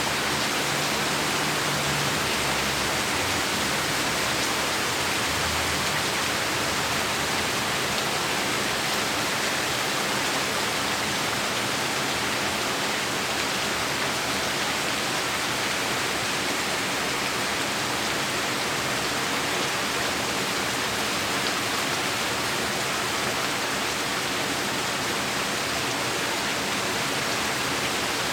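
Heavy rain pouring steadily, a dense even hiss with no letup. A faint low rumble sits under it in the first few seconds.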